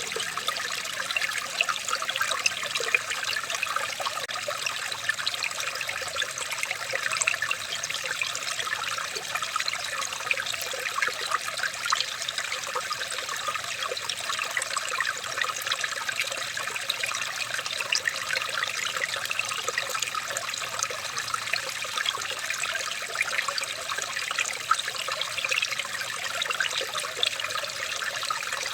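Running water of a small natural stream, a steady trickling and babbling that does not change.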